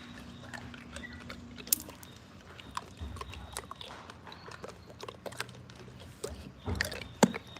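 A Cane Corso dog chewing and biting, with scattered wet clicks and a few sharp knocks near the end.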